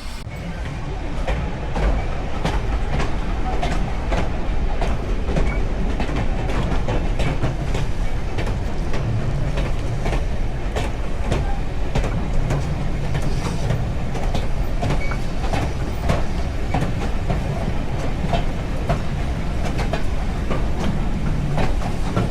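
A heritage railway train running along the track: a steady rumble with many irregular clicks and clatters of wheels over the rails.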